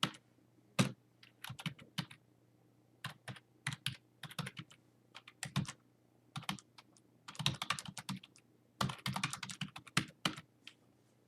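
Computer keyboard typing in short bursts of rapid keystrokes with brief pauses between them, while a journal entry is being keyed in.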